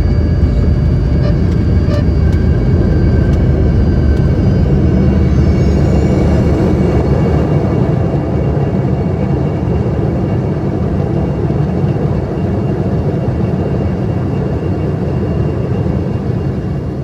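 Embraer ERJ-145 regional jet heard from inside the cabin: loud steady rumble with the Rolls-Royce AE 3007 turbofans' whine rising in pitch about five seconds in, the rumble slowly easing off near the end.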